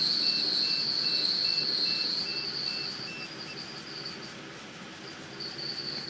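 Freshly built Toyota 6M-GE inline-six (7M block, 5M head) idling just after start-up, with an uneven, weird idle and a miss. A high steady whine sits over the engine, fading about four seconds in and returning near the end, and a faint high beeping repeats until about halfway through; the engine gets quieter about three seconds in.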